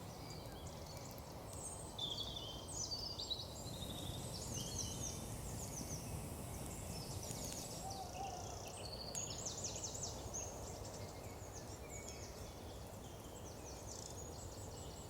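Songbirds singing in woodland: many short, quick chirping phrases, busiest a couple of seconds in and again around the middle, over a steady low background rumble.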